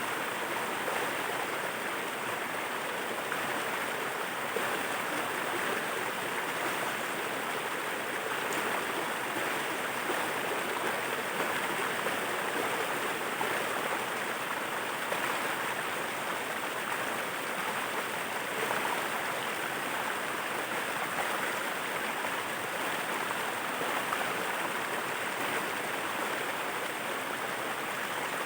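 Steady rushing of falling and flowing water from a waterfall, an even continuous noise with no change.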